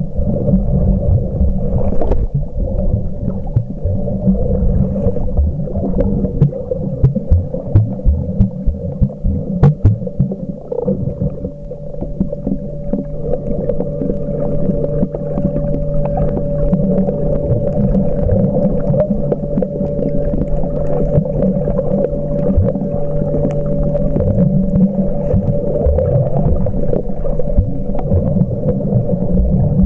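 Muffled underwater sound while snorkeling: low rumbling and knocking of moving water, with a steady low hum through the middle.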